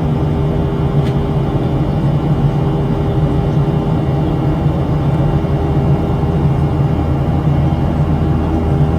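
Steady cabin drone inside a Boeing 737-700 during the climb: the CFM56 turbofan engines and the airflow over the fuselage, with a constant low hum and no change in pitch.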